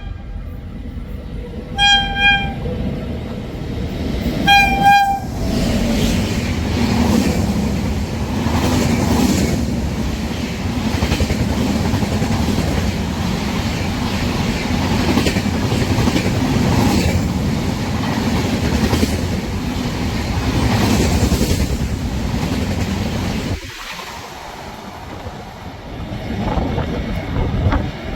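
Indian Railways train horn sounding two short blasts, then the train running past with a steady heavy rumble and wheels clacking over the rail joints. The sound drops sharply about four seconds before the end, leaving a quieter rumble that swells again.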